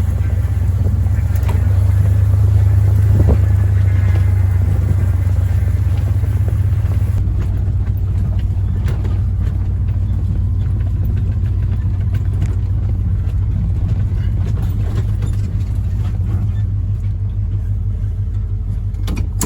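Motor vehicle engine running with a steady low rumble; a higher hiss over it drops away about seven seconds in.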